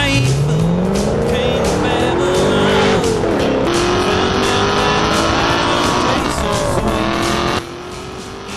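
Race-car-style engine revving hard, its pitch climbing repeatedly as if shifting up through the gears, with tyre squeals and music underneath. The level drops sharply near the end.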